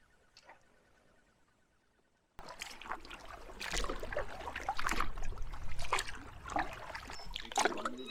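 Water splashing and trickling in irregular bursts, typical of a canoe paddle dipping and dripping. It is faint at first, then much louder from about two seconds in.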